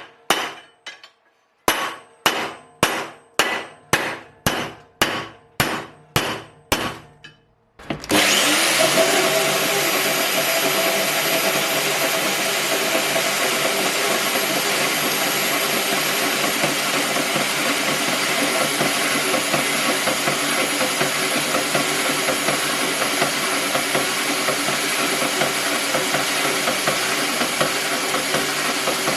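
Repeated hammer blows, about two a second, each with a short ring, for the first eight seconds. Then a power tool's motor starts and runs steadily with a high whine.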